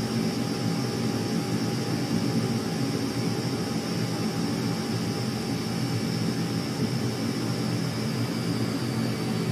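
Jet aircraft engine noise, a steady rumble with a thin high hiss that neither rises nor falls.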